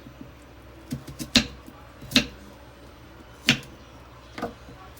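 Five sharp knocks and clinks, about a second apart, of kitchen things striking a cooking pot as ingredients go into a brine.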